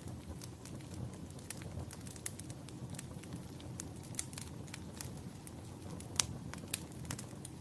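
Wood fire burning in a fireplace: a steady low rumble of flames with irregular sharp crackles and pops, two louder pops a little after six seconds in.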